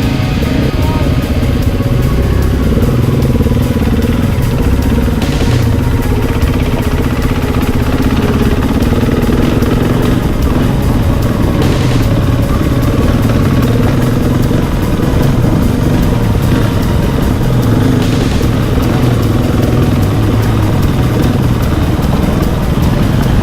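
Dirt bike engine running under way, its pitch rising and falling with the throttle, over a continuous low rumble.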